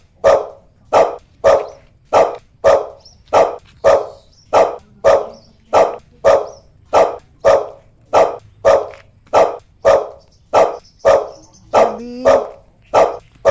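Dog barking over and over in a steady rhythm, about two barks a second.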